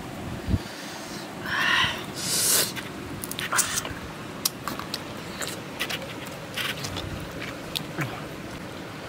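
Close-up eating sounds of a person chewing fried fish: wet mouth clicks and lip smacks, with a loud breathy hiss about two seconds in.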